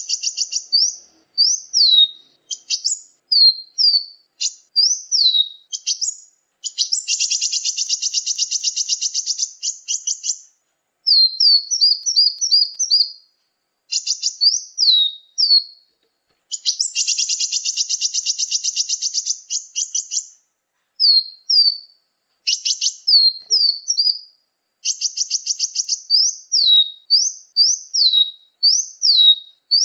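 Recorded bird-lure calls of small songbirds: high, thin, downward-slurred notes given in quick series, broken twice by a long, rapid, buzzy trilled chatter lasting a few seconds.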